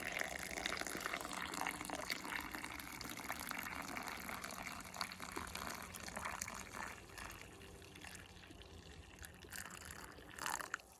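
Boiling water poured from a kettle into a funnel and hose, filling and running down to flush the inlet manifold's coolant passage. The pouring is strongest at first and tapers off in the second half, with a short louder splash near the end.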